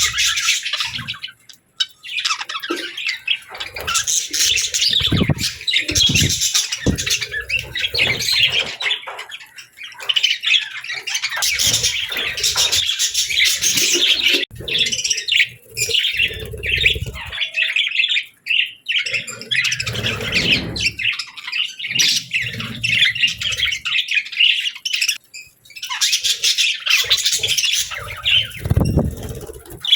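Pet budgerigars chattering and chirping in a fast, busy warble, with brief squawks. A few low thuds break in here and there.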